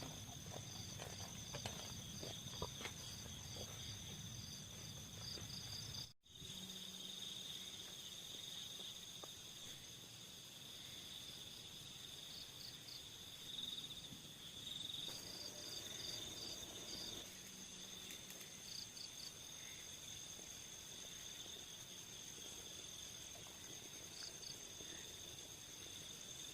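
Insects trilling: a steady high-pitched buzz with repeated runs of rapid, pulsed chirps. The sound cuts out completely for an instant about six seconds in.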